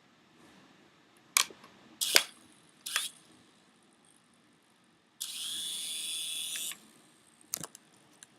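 Handling clicks and knocks, then the small electric motor of a toy RC helicopter whirring up and running for about a second and a half before stopping abruptly, followed by two more clicks.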